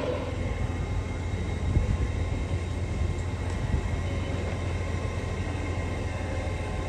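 Train standing at a station platform with a steady low hum, and a few faint knocks.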